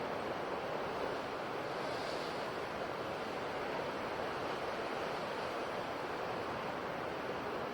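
Ocean waves washing on a shore, a steady even surf noise without distinct breaks or crashes.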